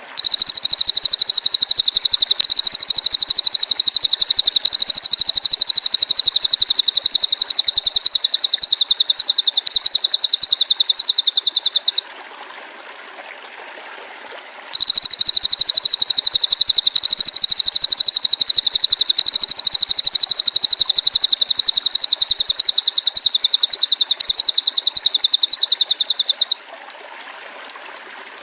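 High, very rapid buzzing trill from a masteran recording of cililin and belalang emas, played as tutoring sound for songbirds. It runs in two long bouts of about twelve seconds each, with a pause of a few seconds between them.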